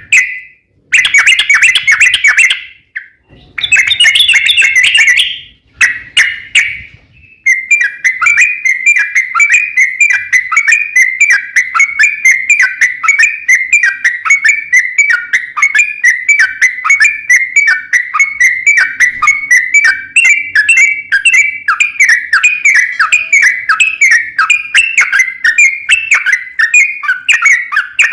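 A crokcokan songbird singing in full voice: a few dense bursts of song in the first seven seconds, then a long, fast series of short repeated notes, about five a second.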